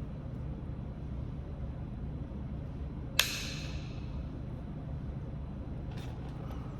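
A single sharp knapping strike on Kentucky hornstone (chert) about three seconds in, a crisp click with a short ringing tail, and a few faint ticks near the end, over a steady low rumble.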